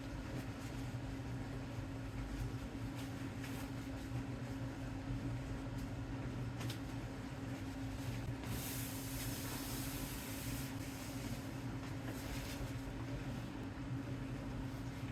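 A steady machine hum with a low pitched drone. About halfway through comes a couple of seconds of hissing, with a few faint clicks and shorter hisses.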